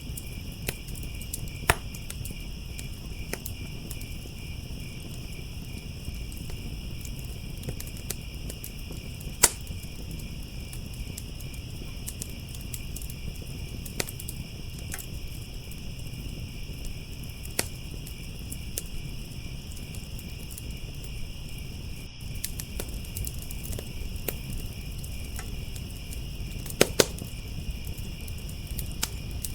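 Crickets chirping steadily over the low rush of a wood fire, with scattered sharp pops and crackles from the burning wood, two loud ones close together near the end.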